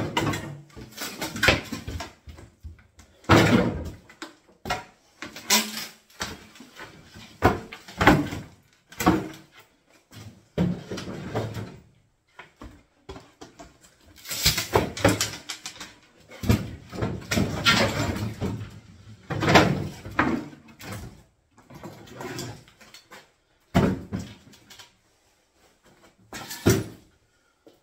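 Irregular bangs, knocks and scrapes of old wooden kitchen units being pulled apart and moved during demolition, coming in bursts with short pauses between them.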